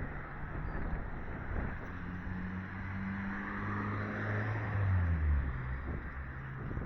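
A motor vehicle passing on the road, its engine note holding steady and then dropping in pitch about five seconds in.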